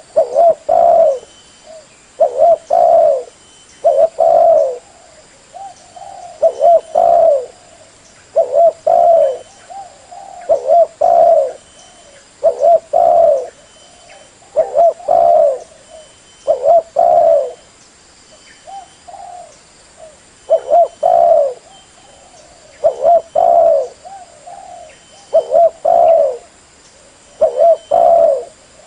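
Spotted dove (terkukur) cooing over and over. Each short two- or three-note coo phrase comes about every two seconds, and fainter coos fall between some of them.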